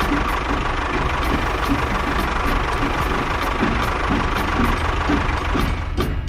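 Steady engine-like running noise with a held tone, over background music with light, evenly spaced ticks. Just before the end the running noise drops back and the music comes forward.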